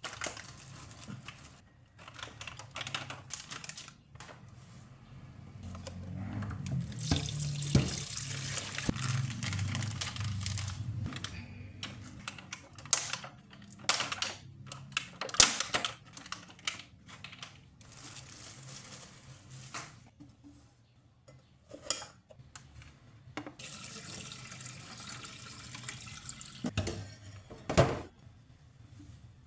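Water running from a tap into a sink in a few spells lasting several seconds, with sharp knocks and clinks in between.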